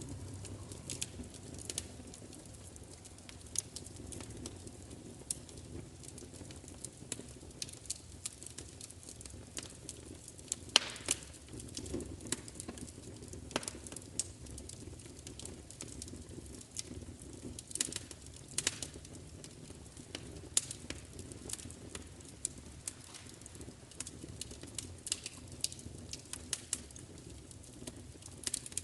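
Wood fire crackling: irregular sharp pops and snaps over a low steady rumble, with one louder pop about 11 seconds in.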